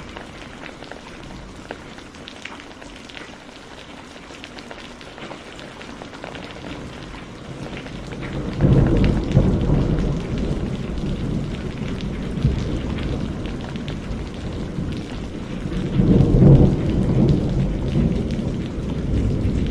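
Steady rain with scattered drop ticks, then rolling thunder: a deep rumble swells suddenly about halfway through and rolls on, with a second loud peak of rumbling near the end.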